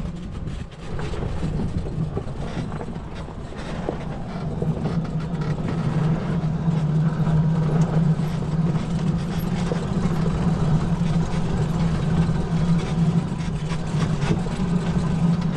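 Electric UTV driving along a rough bush track: a steady low hum that gets louder about four to five seconds in, over a rumble and scattered knocks from the bumps.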